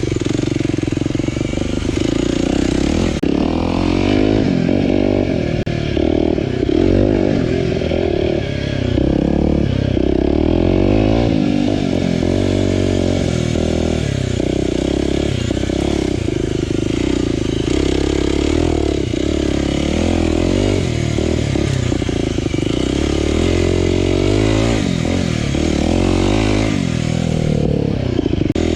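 Aprilia RX125 4T's single-cylinder four-stroke engine, breathing through an aftermarket Snell silencer with a dB killer fitted. It is ridden hard off-road, the revs rising and falling over and over as the bike is worked through the gears.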